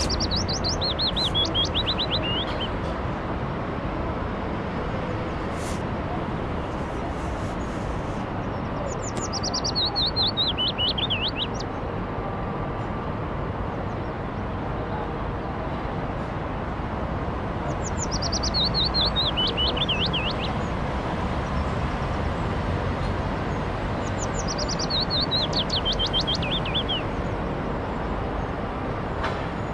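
A songbird sings the same short phrase four times, roughly every eight seconds. Each phrase is a quick trill that falls in pitch. Under it runs a steady bed of background ambience noise.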